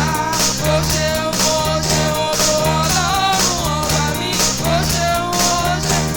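Upbeat praise-band music with a steady beat, a repeating bass line and a wavering lead melody.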